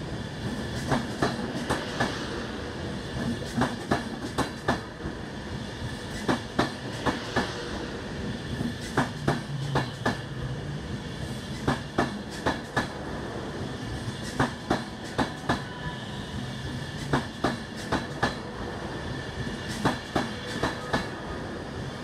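Virgin Pendolino (Class 390 electric train) pulling slowly out of the platform. Its wheels click sharply over rail joints in small groups every couple of seconds as each bogie passes, over a steady hum.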